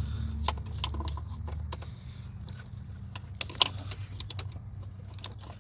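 Scattered metallic clinks and rattles of tools and small parts being handled, over a steady low hum that is louder for the first two seconds.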